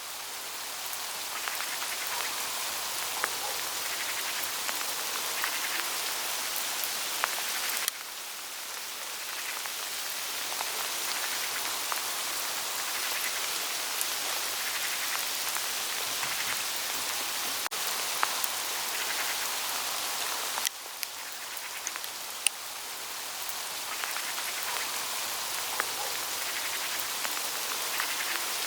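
Hail falling steadily on the dry leaves of autumn foliage, a dense rain-like hiss dotted with small ticks of pellets striking leaves. Twice the sound drops off suddenly and builds back up.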